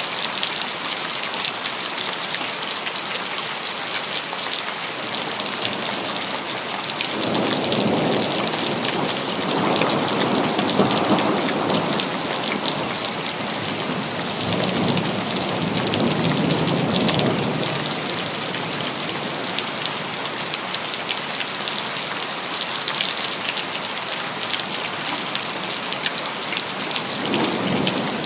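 Steady city rain, with rolling thunder rumbling twice in the first two thirds and starting again right at the end.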